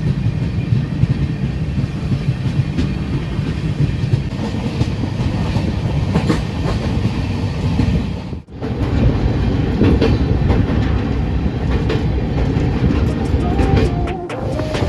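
Train running along the track: a steady heavy rumble with wheels clattering over rail joints. The sound drops out sharply twice, about halfway through and near the end, where the footage is cut.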